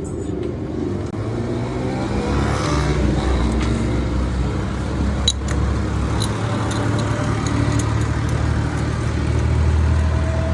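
Motor vehicle engines running with traffic noise: a steady low hum that builds slightly, with a few sharp clicks.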